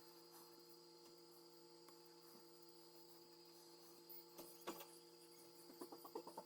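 Near silence: a steady electrical hum, with a couple of faint clicks and then a quick run of small ticks near the end.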